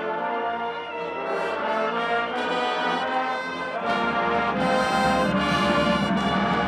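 College marching band's brass section playing music: trombones and trumpets holding sustained chords, the sound growing fuller from about four seconds in.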